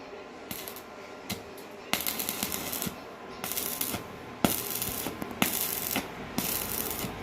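Electric arc welding crackle in short bursts, with the arc struck and broken about once a second, each burst opening with a sharp snap.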